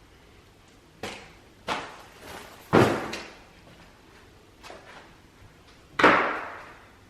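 A handful of separate sharp knocks and bangs, each dying away quickly. The loudest comes about three seconds in and another strong one near the end.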